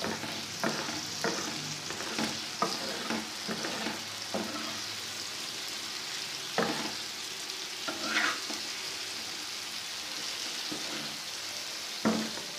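Goat liver masala frying on a tawa, a steady sizzle, with a spatula scraping and knocking against the pan at irregular intervals as it is stirred.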